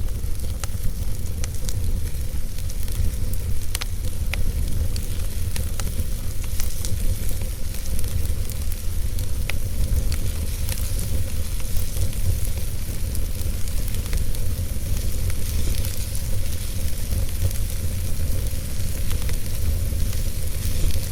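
Wood fire burning in a fireplace: a steady low rumble and hiss with many scattered sharp crackles and pops.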